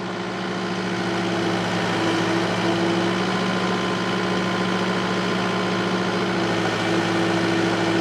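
Takeuchi TL8 compact track loader's diesel engine running steadily while the machine works, with a higher tone coming and going above the engine note.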